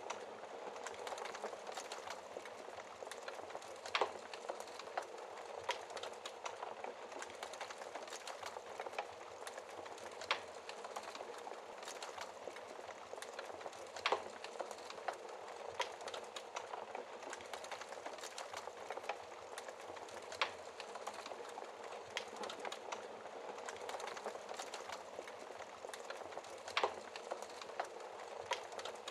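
Wood fire burning in a fireplace: a steady hiss of flames with constant fine crackling and a handful of louder sharp pops from the burning logs.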